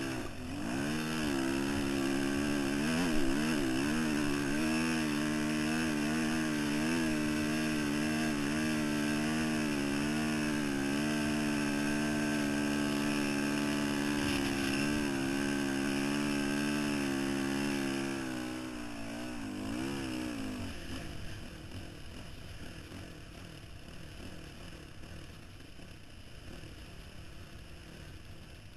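Dirt bike engine running hard under steady load for about eighteen seconds, its pitch wavering slightly. It then drops off, revs briefly once more, and fades away, leaving a faint rushing noise.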